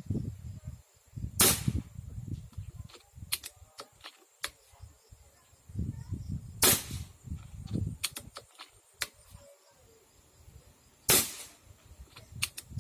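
A gun fires three single shots about five seconds apart while a 20-round magazine is being tested. Fainter small clicks and low handling noise come between the shots.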